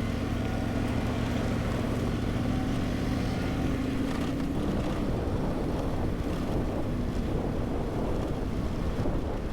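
Adventure motorcycle engine running steadily at low speed on a dirt road, with wind rumble on the microphone; the engine's steady hum fades into the rumble about four seconds in.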